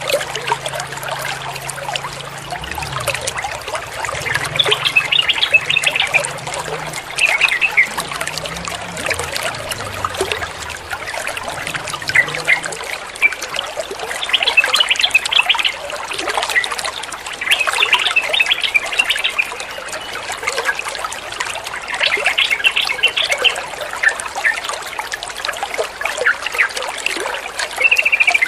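Yellow-vented bulbul (trucukan) singing short, bubbly phrases every few seconds over a steady trickle of running water.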